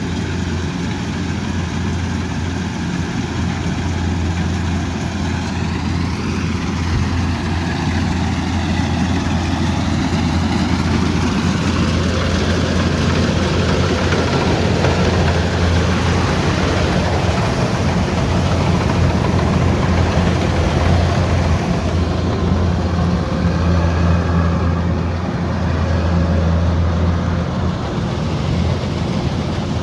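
Kubota combine harvester's diesel engine running steadily under working load, a constant low hum.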